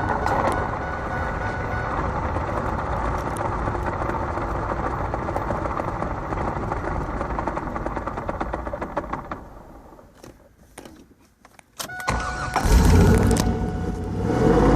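LS1 V8 in a car with a T56 manual gearbox, running steadily, then dying away to near silence about ten seconds in. About two seconds later it is cranked and restarts, loudest right at the start, and runs again.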